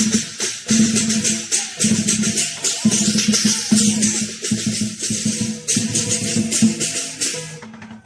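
Lion dance percussion: a drum beating with clashing cymbals in a fast, dense rhythm, breaking off briefly near the end before starting again.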